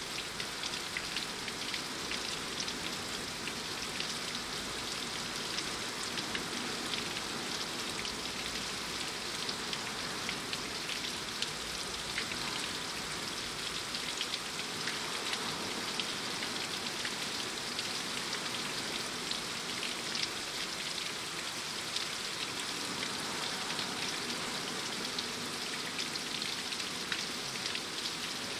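Steady rain falling, with many individual drops ticking against a hard surface.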